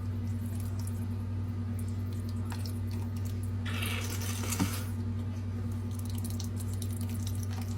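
Carrot juice squeezed out through a cut in a plastic bottle's rim and splashing onto chicken in a pan, heard as a short hissy splash lasting about a second near the middle, over a steady low hum.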